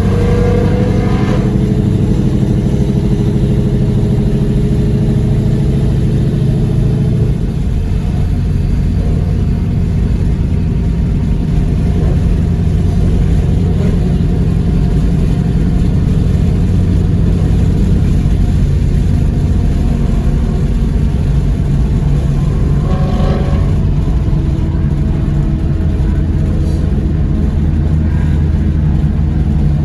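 Supercharged 5.2-litre V8 of a 2020 Shelby GT500 running steadily at low revs, its tone shifting slightly about seven seconds in.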